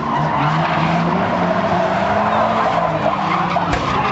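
Engines of several pre-1976 banger racing cars running and revving, with a steady engine note that shifts pitch in steps.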